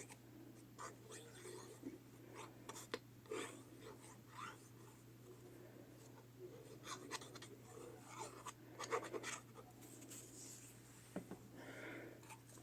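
Faint scratching, rustling and light taps of paper-craft materials being handled and worked on a tabletop, over a steady low electrical hum.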